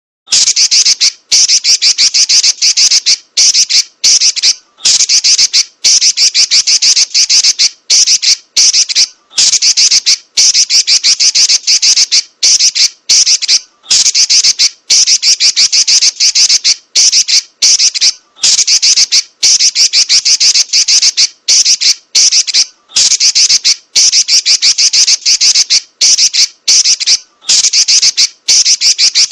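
Female Pekin robin (red-billed leiothrix) chattering fast and high ('nyerecet'), in long rolling runs broken by brief pauses every second or two.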